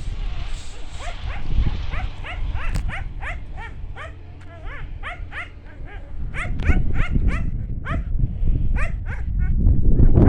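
An animal's short, high-pitched cries repeated quickly, several a second, each rising and falling in pitch, over a low rumble, with a louder rustling noise near the end.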